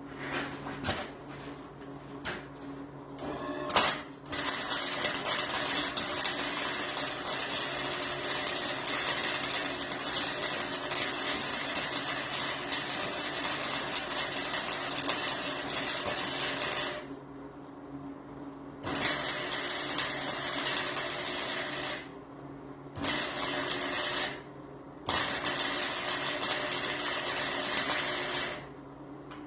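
Electric arc welder, likely MIG, laying beads: a long stretch of steady crackling hiss, then three shorter bursts, each starting and stopping sharply as the trigger is pulled and released, over a steady low hum.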